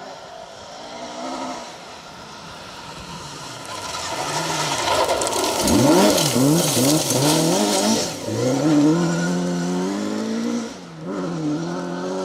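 Ford Escort Mk2 rally car driven flat out on a stage: the engine revs rise and fall quickly through gear changes and throttle lifts as the car comes close, with a loud rush of noise as it passes nearest. It then pulls away accelerating through the gears, with one gear change near the end.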